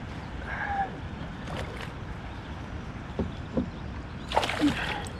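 Steady low rumble of river water and wind around a kayak, with a few scattered knocks and a louder cluster of clatter about four and a half seconds in.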